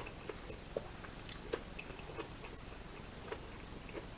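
A person chewing food with small wet mouth clicks, a couple of them sharper about a second in.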